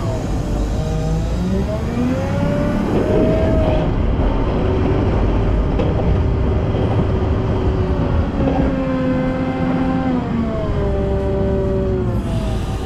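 Volvo L90F wheel loader's diesel engine running under varying throttle, its pitch rising and falling a few times as the machine works.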